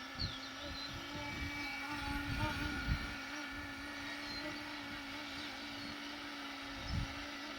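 Battery-electric Flywing Bell 412 RC helicopter flying: a steady motor-and-rotor whine whose pitch wavers slightly. Wind buffets the microphone in low thumps, loudest about three seconds in and again near the end.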